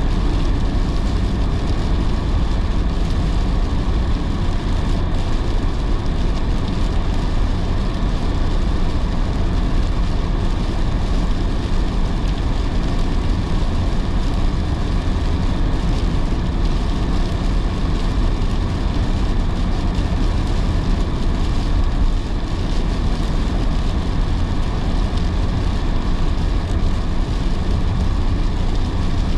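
Steady rumble of a car driving on a wet road in heavy rain, heard from inside the cabin: tyre and road noise over the engine's hum, with no distinct events.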